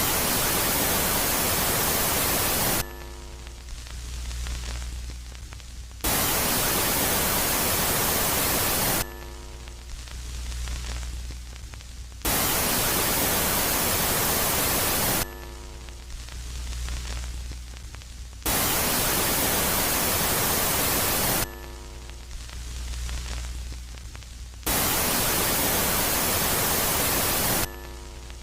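Space-sound track presented as the sound of Jupiter's moon Megaclite: loud static hiss for about three seconds, then a quieter phase with faint steady tones under a softer swelling hiss, the two alternating about every six seconds, five loud phases in all.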